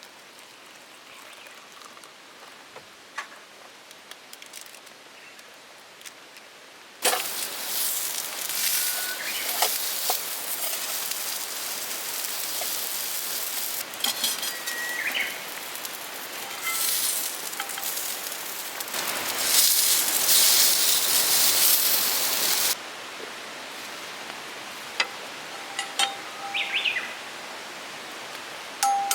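Rain falling steadily as an even hiss with fine pattering, loud from about seven seconds in until it cuts off abruptly a little past twenty seconds. Birds chirp briefly several times.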